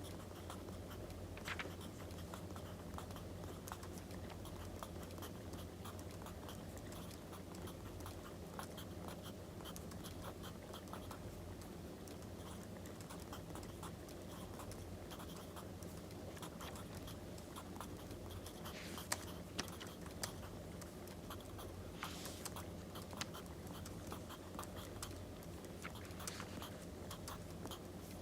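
Wood fire crackling with a steady run of small pops, mixed with the scratch and rustle of paper. A few louder paper scrapes come about two-thirds of the way through.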